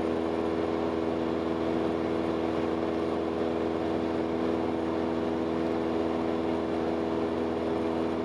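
Cabin drone of a Cessna 172S's four-cylinder Lycoming engine and propeller running steadily, still at climb power as the aircraft levels off.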